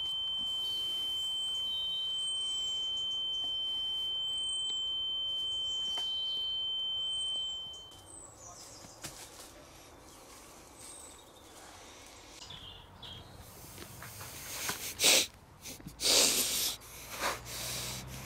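A steady high-pitched tone, with short high chirps above it, that fades out about eight seconds in. Then a quiet background, broken near the end by a few loud, sudden noises.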